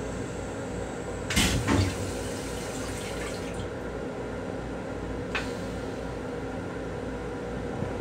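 Steady rumble and hum of a Metro-North M7 electric railcar heard inside its small restroom. About a second and a half in comes a brief loud clatter with two knocks, trailing off in a faint hiss, and a small click follows a few seconds later.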